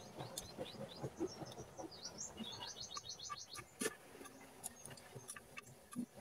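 Small birds chirping faintly, with a quick run of short rising chirps about two to three seconds in. Soft clicks and taps from people eating at the table are scattered throughout.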